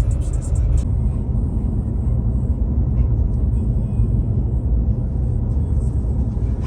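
Truck driving, with a steady low engine and road rumble.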